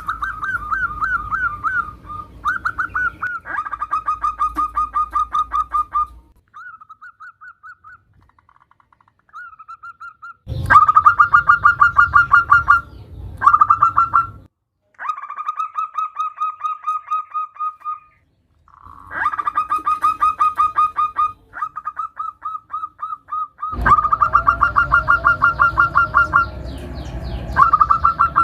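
Zebra dove (perkutut) calling: rapid trains of short cooing notes in bursts of a few seconds, with short pauses between and a quieter stretch about a third of the way in. The uploader presents it as a female calling a male.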